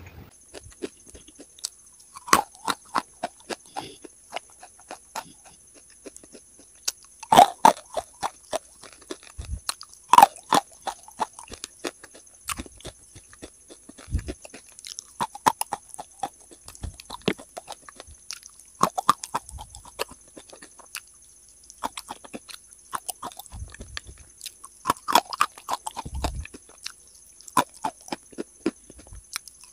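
Close-up chewing and crunching of wet chalk paste with chalk chunks. Irregular clusters of sharp crunches and wet mouth clicks with short quiet gaps; the loudest crunches come about a quarter and a third of the way through.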